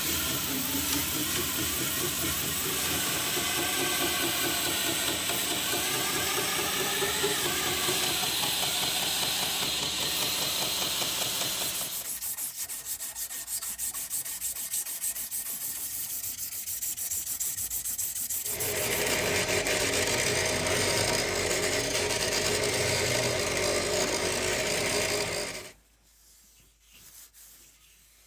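Abrasive work on the knife handle, sanding or rasping, in three stretches of different tone, then stopping near the end.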